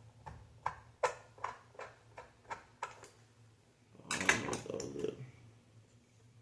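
Small hard clicks about two or three a second, from Xbox Series S parts and screws being handled and fitted, then a louder scraping rustle about four seconds in lasting about a second.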